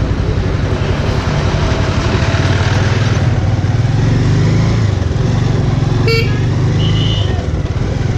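Bajaj Avenger motorcycle engine running steadily while riding, over a steady rush of noise. About six seconds in there is a short horn beep.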